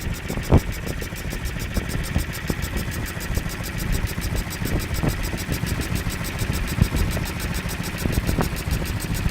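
1936 Olympia marine engine running steadily at idle with a fast, even beat, and a sharp knock about half a second in.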